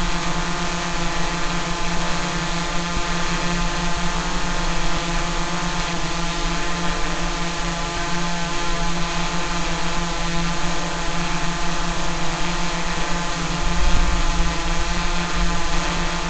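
Small multirotor drone's propellers and motors buzzing at a steady pitch, as when hovering. A brief low rumble comes in about fourteen seconds in.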